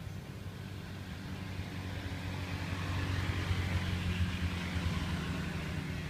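An engine running with a steady low hum and a hiss that grows louder about halfway through, then eases slightly near the end.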